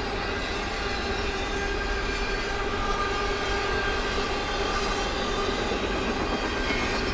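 Train rolling past with a steady rumble of wheels on the rails.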